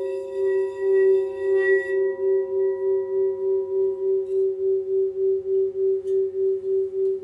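Crystal singing bowl ringing one sustained low tone that swells and fades in a steady pulse, about four beats a second. A fainter higher tone dies away about halfway through.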